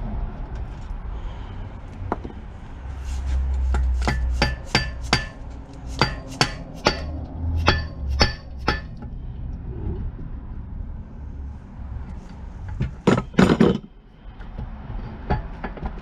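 Hammer tapping on metal, each strike ringing briefly. There is a run of about ten quick taps, then a pause and a few harder blows near the end, as the crankshaft is knocked loose from a 12 hp Briggs & Stratton engine block.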